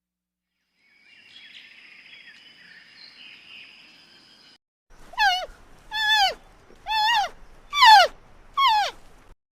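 An animal calling five times, short high calls about a second apart, each briefly rising then dropping in pitch, after a few seconds of faint chirping in the background.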